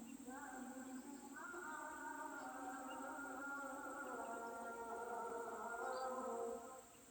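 Yellow-vented bulbul nestlings begging together in a continuous buzzy chorus of several overlapping voices, which stops abruptly near the end.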